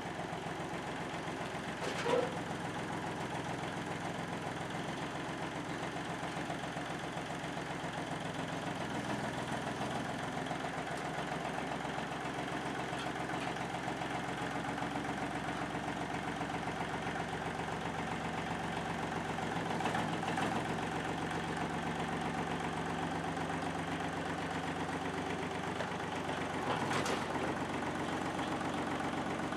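A vehicle engine idling steadily, with a sharp click about two seconds in.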